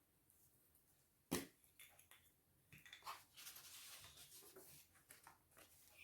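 Quiet crafting handling noises: one sharp click about a second in, then a couple of seconds of faint rustling, like paper being handled, with small clicks.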